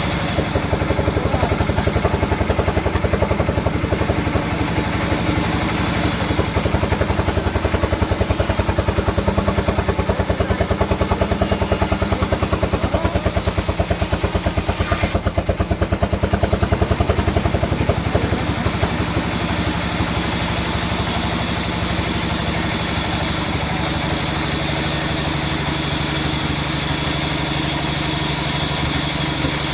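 An engine running steadily with a regular pulsing beat, a little louder through the middle stretch.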